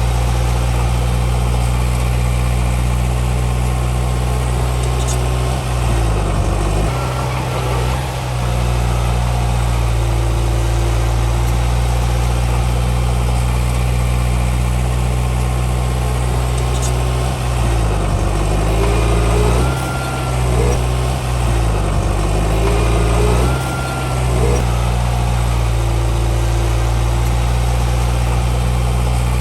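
Heavy diesel engine of a Komatsu D31P bulldozer running steadily. Its pitch dips briefly about six seconds in and again several times near two-thirds of the way through, with a few short squeals in between.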